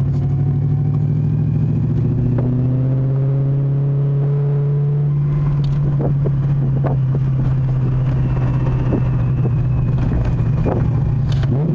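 Supercharged Ford 4.6 V8 of a Mustang GT heard from inside the cabin while driving: a steady low drone whose pitch climbs slowly over the first few seconds as the car accelerates, then holds level at cruise. A few short knocks come in the second half.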